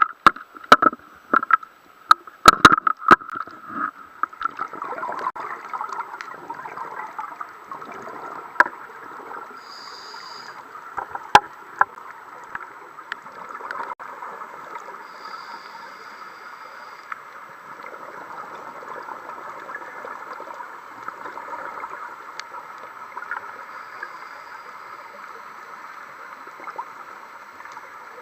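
Muffled water noise of a scuba dive as picked up inside an underwater camera housing, with sharp clicks and knocks that are loudest in the first few seconds and then thin out. Brief high tones come twice, about ten seconds in and again around sixteen seconds.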